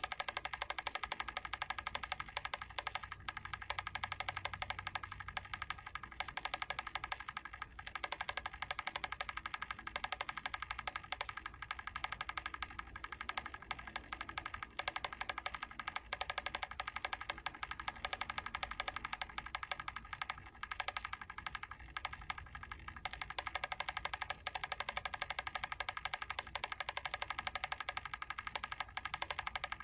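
Mechanical timer switch ticking steadily and rapidly as its timing mechanism runs.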